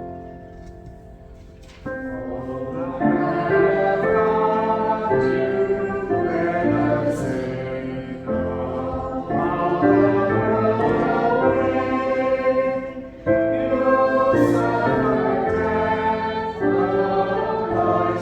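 Church choir singing with keyboard accompaniment. A quiet piano lead-in fades at first, and the voices come in strongly about three seconds in, singing in sustained phrases.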